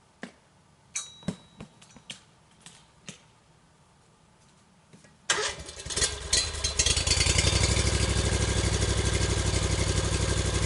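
A few light knocks, then about five seconds in a small gas engine starts and settles into a steady, fast-pulsing run.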